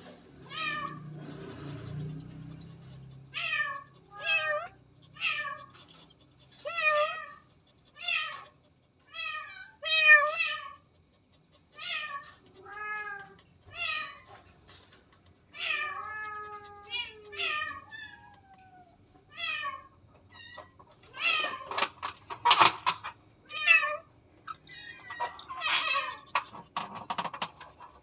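A pregnant cat close to giving birth meowing over and over, about one call every second or two, each call bending in pitch. The cries grow louder and rougher in the last few seconds.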